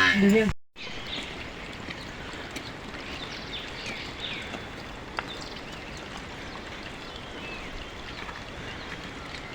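Steady outdoor background noise with faint bird chirps in the first few seconds and a single light click about five seconds in.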